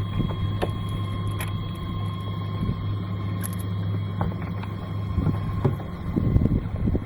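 A small boat motor running at a steady pitch, with a low hum and a faint steady whine above it.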